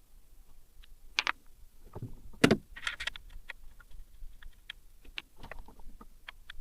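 Scattered clicks and knocks of small metal engine parts and hand tools being handled, with one louder knock about two and a half seconds in, followed by a brief clatter.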